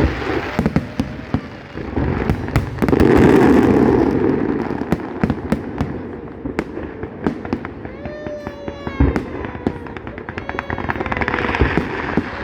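Aerial fireworks display: a rapid run of sharp bangs and crackles, swelling into a louder, dense rush of bursts about three seconds in.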